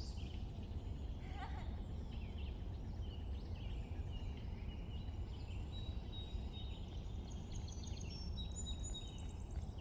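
Spring bird chorus: many small songbirds, sparrows among them, chirping and trilling in overlapping calls over a steady low rumble.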